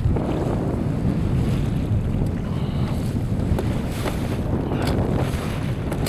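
Boat running across choppy water, with heavy wind buffeting the microphone and a few brief slaps about midway.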